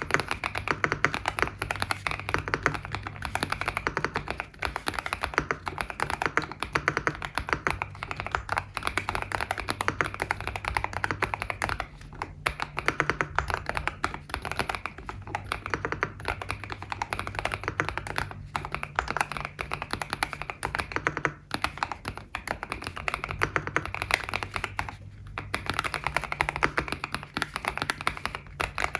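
Continuous typing on a modded GMK67 mechanical keyboard with stock factory-lubed Vertex V One switches and ABS double-shot Cherry-profile keycaps: a dense run of deep "thock" keystrokes with a few short pauses. A faint low tone that shifts in steps runs underneath.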